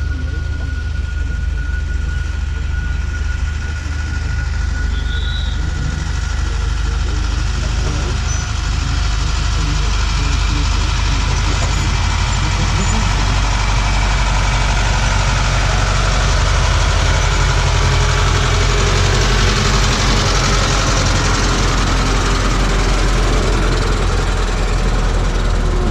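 Narrow-gauge electric mountain train running along its track, heard from on board: a steady low rumble with a thin steady whine, getting louder and noisier about ten seconds in.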